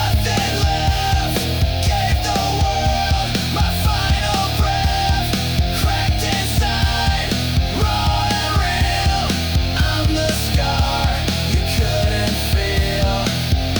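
Grunge-style rock music with no vocals: distorted electric guitars, bass and drums playing a steady, driving beat.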